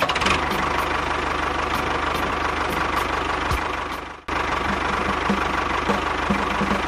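Engine running steadily with a fast, even knocking chug, like a tractor engine idling. It breaks off for a moment about four seconds in and picks up again.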